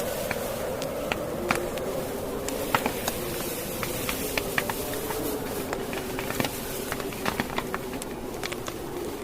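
Fire crackling with many sharp, irregular pops, over a steady blizzard wind that moans with a wavering low tone.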